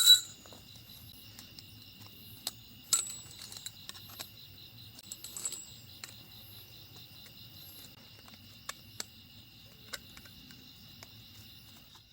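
Metal clanks and clicks of a folding camping fire pit being unfolded and set up: a sharp clank at the start, another about three seconds in, then lighter scattered ticks. Insects chirr steadily underneath.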